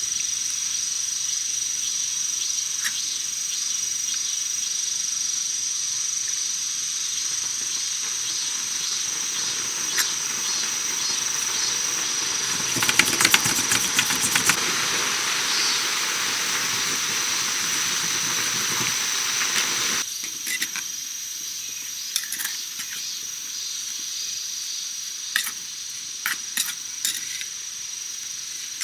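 Rain falling on a tent: a steady hiss that turns heavier and fuller for several seconds past the middle, then, after a sudden change, lighter rain with scattered drips tapping. A steady high whine runs through it all.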